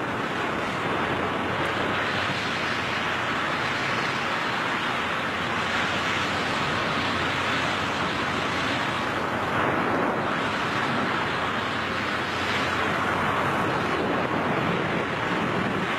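Steady rushing wind noise of skydivers in freefall, an unbroken roar of air with no pauses.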